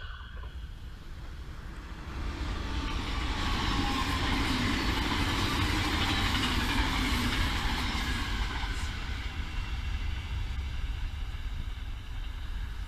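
Double-deck electric passenger train passing on the line. The rumble and wheel noise swell about two seconds in, are loudest in the middle, then slowly fade as the train runs off into the distance.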